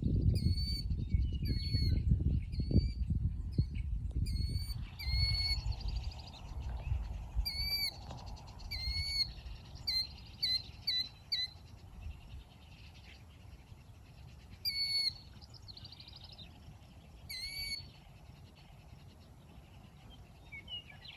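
A bird calling over and over in short, hooked notes, with uneven gaps between them. A low rumbling noise fills the first few seconds.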